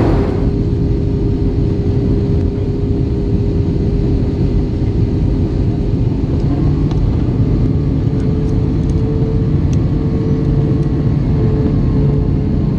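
Steady low rumble with a constant hum inside an Airbus A320 cabin: engine and airflow noise.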